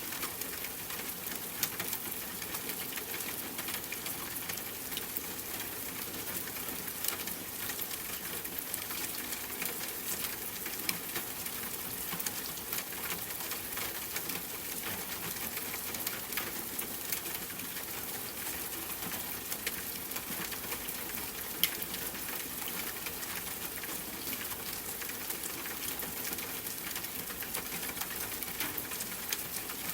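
Steady rain falling, with a continuous hiss and the patter of individual drops ticking on a surface; one sharper drop stands out a little past two-thirds of the way through.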